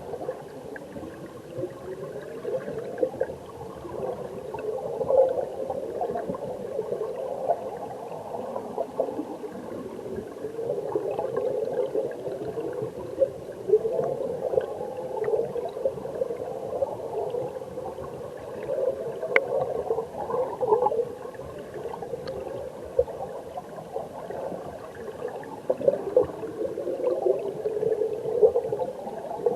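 Stream water flowing and bubbling heard underwater through a submerged camera: a steady, muffled gurgle with short wavering pitch slides and a few faint clicks.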